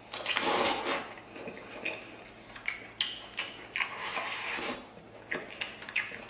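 A person eating braised pork intestines: irregular chewing and mouth noises, with scattered small clicks and a louder burst of sound in the first second.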